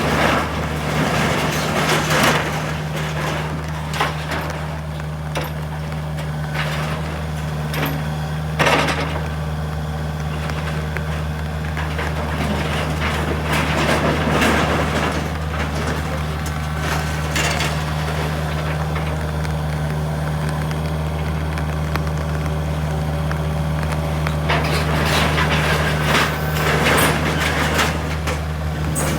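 A truck engine idling steadily, with irregular crashes and clatter of debris being handled over it.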